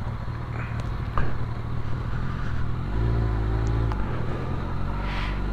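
Honda CBR1100XX Blackbird's inline-four engine running at low revs as the motorcycle rides slowly along an unsurfaced track. About three seconds in the throttle is opened a little for about a second, then eased off again.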